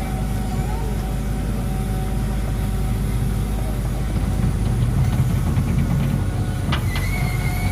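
Heavy truck's diesel engine running under load on a steep uphill, a low rumble that grows louder past the middle. A couple of sharp clicks near the end.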